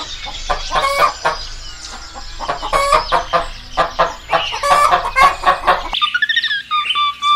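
A flock of chickens clucking, many short overlapping calls over a busy farmyard background. About six seconds in, the sound cuts abruptly to a string of short, evenly repeated whistle-like notes.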